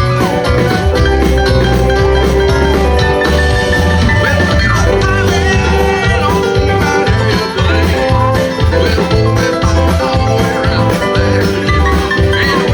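Live band playing amplified music with a steady, pulsing beat.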